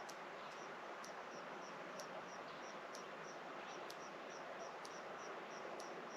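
Rhythmic high-pitched insect chirping, about three short chirps a second, with a faint tick about once a second over a steady hiss of rural evening ambience.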